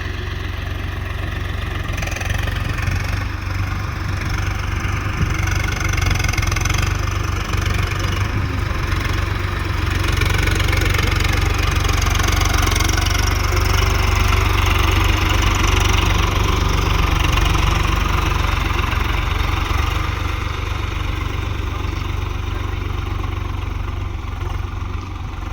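Swaraj 744 tractor's three-cylinder diesel engine running steadily, growing louder for several seconds midway and then easing back.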